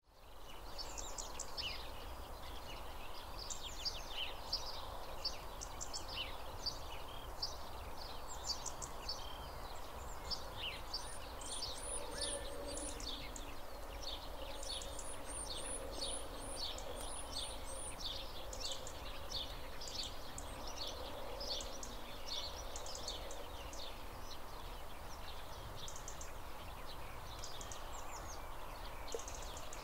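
Birds chirping, many short quick calls overlapping throughout, with a run of very high thin notes in the middle, over a steady low background hum.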